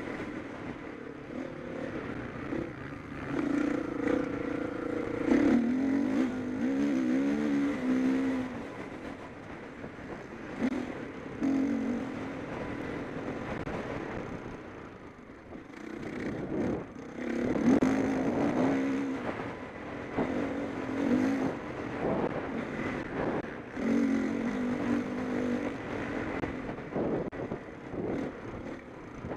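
Motocross bikes racing past, their engines revving up and down through the gears in repeated surges as riders go by, with several bikes audible at once.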